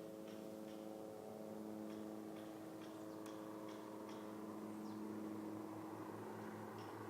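Faint steady hum with soft, irregular light ticks; no horse call yet.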